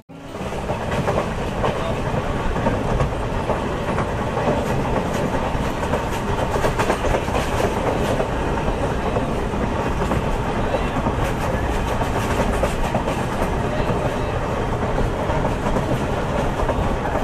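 A Mumbai suburban local train running: a steady rumble with a continual clatter of wheels over the track.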